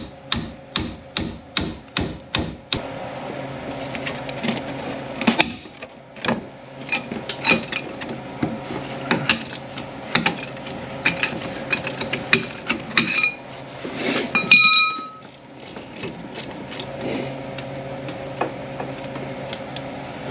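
Hand-tool work on a truck's front wheel hub, metal on metal: a quick run of evenly spaced strikes, about three a second, then irregular clicking and tapping like a ratchet wrench. About two-thirds through, a metal clink rings out briefly.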